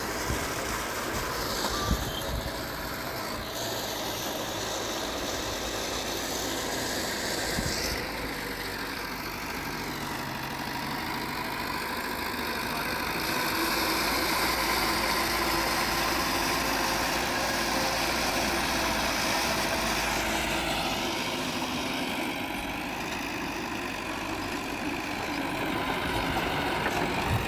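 Diesel engines of earthmoving machinery, a bulldozer and dump trucks, running steadily, a little louder for a while in the middle.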